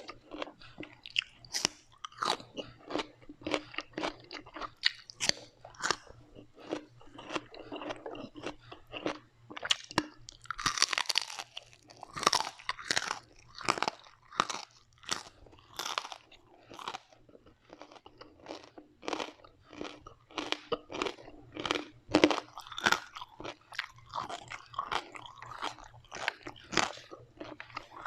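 Close-miked chewing of crunchy food, a steady run of sharp, irregular crunches and crackles, busiest about halfway through.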